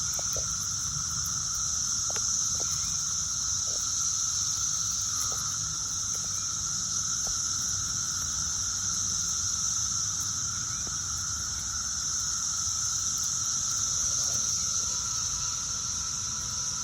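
Dense cicada chorus, a steady unbroken drone with a high buzz over a lower whine, with a few faint short ticks in the first half.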